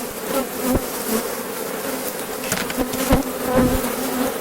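Honeybees of a strong, opened hive buzzing in a dense, steady low hum, the sound of a large colony disturbed during inspection. A few short low thumps break in about a second in and around three seconds in.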